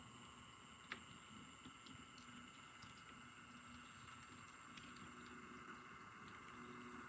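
Model trains running on the layout, faint: a steady motor whine with scattered light clicks from wheels on the track, one sharper click about a second in.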